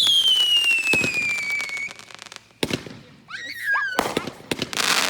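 Consumer fireworks going off: a shrill whistle that falls steadily in pitch over about two seconds, with sharp crackling pops throughout, then loud bangs near the end.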